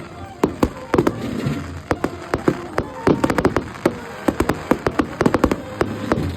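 Fireworks going off: a dense, irregular string of sharp cracks and pops, several a second.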